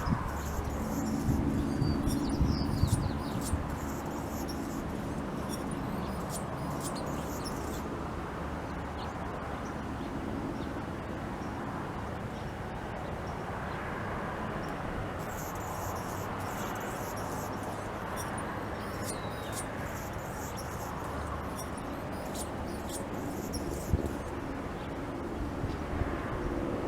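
Several small birds chirping and singing in quick short calls, in two spells with a quieter stretch in the middle, over a steady low hum.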